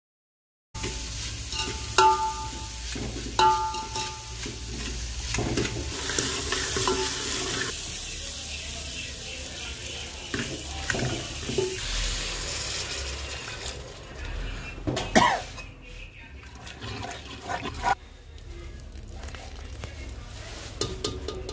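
Chopped onion, ginger, green chilli and garlic sizzling as they fry in oil in a metal pot, with a steel ladle stirring and clinking against the pot; two ringing clinks about two and three and a half seconds in. The sizzle dies down after about fourteen seconds, leaving scattered knocks of the ladle.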